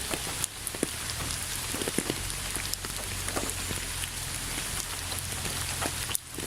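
Steady rain falling, a constant hiss with many individual drops striking a surface as sharp little ticks, over a low steady hum. The sound dips briefly just before the end.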